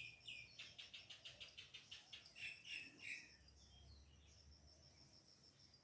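Faint, rapid high peeping of a young bird trapped inside a hollow steel post, about seven chirps a second for roughly three seconds, fading away.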